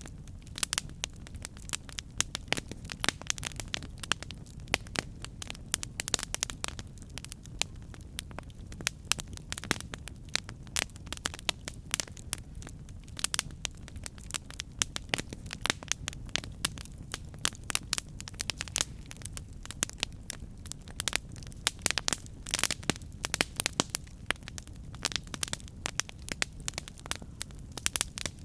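Campfire burning with irregular crackles and pops of wood over a steady low rumble of the flames.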